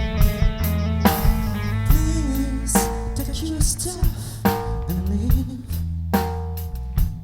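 Rock band instrumental passage: drum kit beating a steady rhythm with bass drum and snare under sustained bass and chords.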